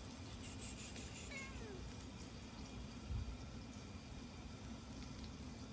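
A cat meowing once, its pitch falling, about a second in. A dull low thump follows around three seconds in.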